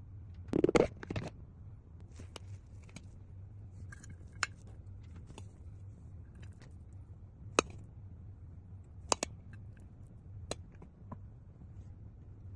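Kitchen utensils clicking and tapping now and then, with a short scraping clatter about half a second in, over a steady low hum.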